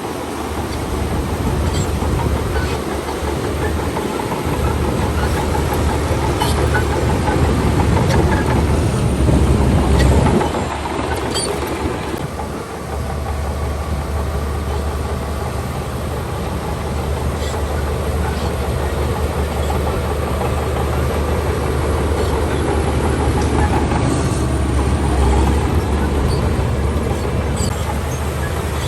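Shantui DH17C2 bulldozer's diesel engine running under load with a steady low drone, loudest about ten seconds in and easing briefly a couple of seconds later. Occasional sharp metallic clanks come through over it.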